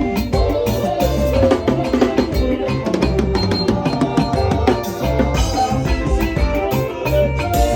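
Live band playing: a drum kit and percussion beating steadily over a bass line and melodic instruments.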